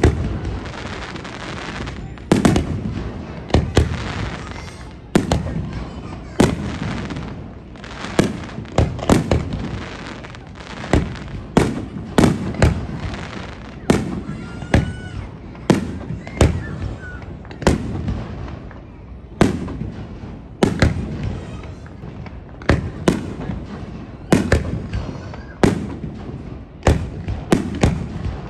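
Aerial fireworks shells bursting one after another, a sharp bang about every second, with noise carrying on between the bangs.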